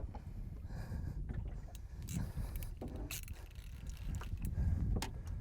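Low steady rumble of wind and water around a small fishing boat, with a few scattered knocks and splashes as a hooked fish is brought alongside and gaffed.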